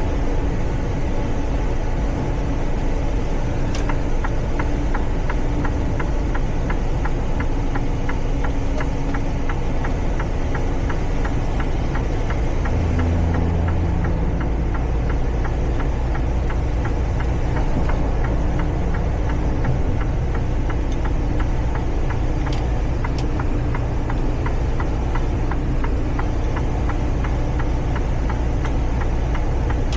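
Semi-truck driving, heard from inside the cab: steady engine and road noise, with a rapid, light, regular ticking from a few seconds in until near the end.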